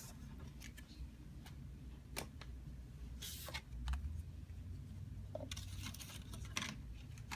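Pokémon trading cards and booster packs being handled: light clicks and soft rustling, with a few brief louder rustles just after the middle and again later on.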